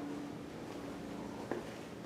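Indoor room tone: a steady low hum with one short click about one and a half seconds in.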